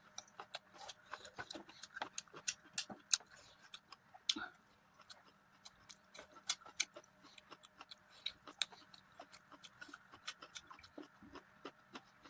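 Close-miked eating sounds: wet chewing and lip smacking on mutton curry and rice, made up of quick, irregular clicks several times a second.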